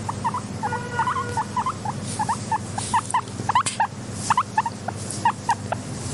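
Guinea pigs squeaking: short, rising squeaks about three or four a second, irregularly spaced, over a steady low hum, with a brief held note about a second in.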